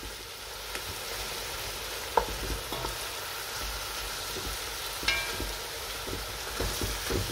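Rabbit pieces, chopped onion and paprika sizzling in the fat of a pot while a wooden spatula stirs them, with a few short knocks and scrapes of the spatula against the pot, the clearest about two seconds in, about five seconds in and near the end.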